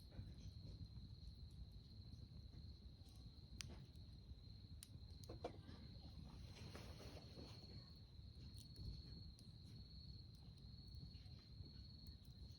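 Faint, steady trilling of night insects such as crickets, held at one high pitch, over a low rumble, with scattered small crackles from a wood campfire.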